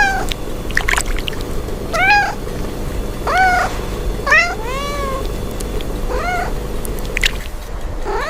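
A cat meowing repeatedly, about seven separate meows, each rising then falling in pitch, over a faint steady hiss.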